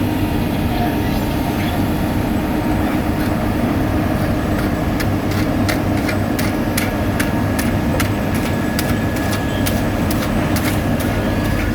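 Heavy road-construction machinery running steadily, with a loud engine drone. Sharp clicks and ticks come in from about five seconds in.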